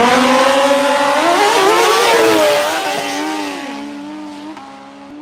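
Drag-racing motorcycles at full throttle down the strip. The engine note climbs in pitch and steps down at gear changes, then fades steadily as the bikes pull away.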